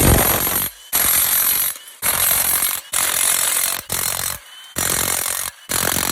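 Impact wrench run in repeated bursts of about a second each, about six times, loosening bolts on an engine.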